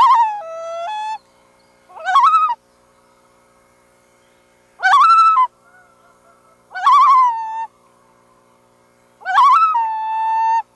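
Loon calling five times, a couple of seconds apart. Each call sweeps up sharply, then drops and steps down in pitch, and the first and last calls are held for about a second at the end.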